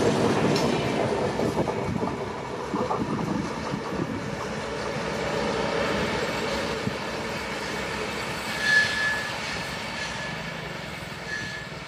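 Wheels of a passing passenger train rumbling and clacking over the rails, fading as the end of the train moves away. A brief high wheel squeal comes about nine seconds in, and two shorter ones near the end, as the coaches round a curve.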